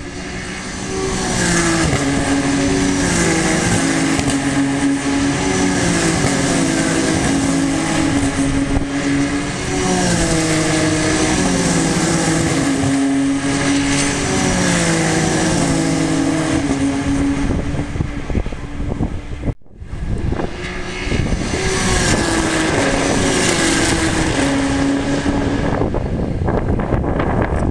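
Racing cars' engines at full race pace on a circuit, several cars in turn, their pitch climbing and stepping with gear changes. The sound breaks off sharply for a moment about two-thirds of the way through, then more cars follow.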